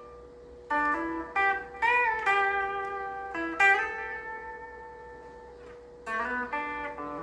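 Electric guitar on a clean tone playing a slow single-note melody, with one note bent up and back down about two seconds in and a long ringing note after it. A quicker run of notes follows near the end.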